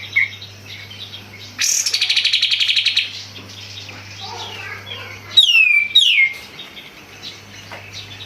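Kapas tembak songbird calling loudly: a fast, buzzy trill of rapidly repeated notes lasting about a second and a half, then two sharp down-slurred whistles about half a second apart, with smaller chirps between. A faint steady low hum underneath.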